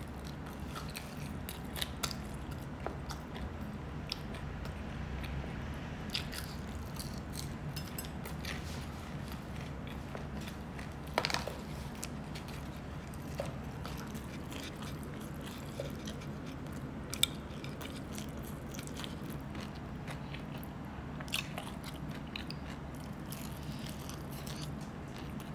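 A person eating close to the microphone: quiet chewing and biting, with scattered small crunchy clicks and two sharper crunches, one near the middle and one about two-thirds in, over a steady low hum.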